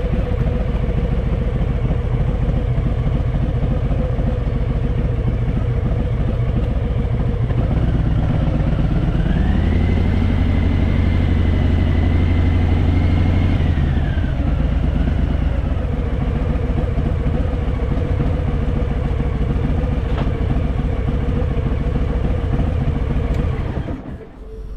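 Harley-Davidson Fat Boy V-twin motorcycle engine running under way, opening up with a rise in pitch about a third of the way in, holding there for a few seconds, then easing back to a steady run. The engine sound falls away abruptly just before the end.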